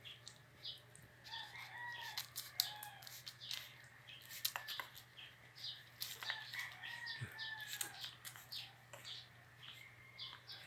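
Young puppies whimpering: faint, short, high-pitched squeals that rise and fall, repeated every second or so, with scattered light clicks.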